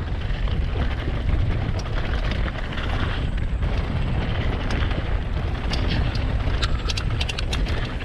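Wind buffeting a helmet-mounted camera's microphone as a hardtail mountain bike rides down a bumpy dirt trail. Rattling clicks from the chain and frame grow sharper and more frequent in the last couple of seconds.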